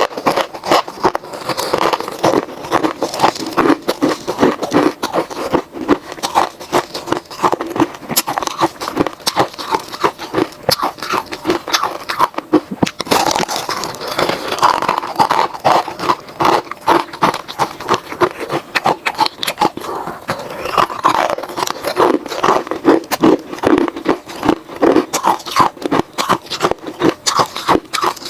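Close-miked crunching of ice cubes being bitten and chewed: a dense, fast run of crisp cracks and crunches that goes on without a break.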